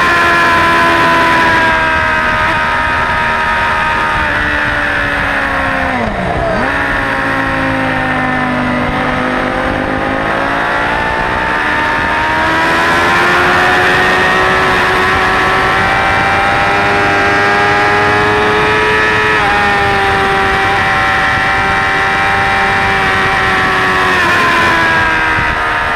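Suzuki GSX-R600's inline-four engine running at high revs under a rush of wind noise. About six seconds in the revs fall sharply as the rider shuts off for a corner, then climb steadily again under acceleration and hold, dipping once more near the end.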